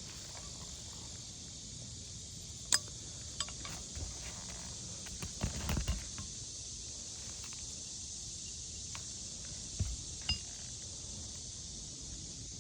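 A new asphalt 3-tab shingle being slid into place beneath the shingles above: a few scattered light clicks and scrapes, the sharpest a little under three seconds in, over a steady faint hiss.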